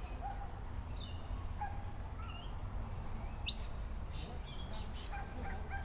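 Small birds chirping and calling now and then, short high notes scattered through, over a steady low rumble.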